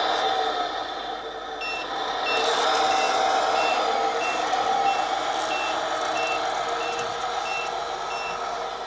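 Tamiya Scania 770S model truck's sound unit playing a running truck engine, with a reversing beeper that starts about a second and a half in and sounds about every 0.7 seconds, the sign that the truck is backing up.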